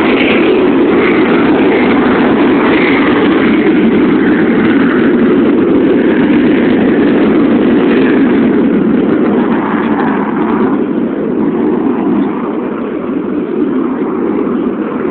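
Aircraft engines passing low overhead, a loud steady rush that eases off after about ten seconds.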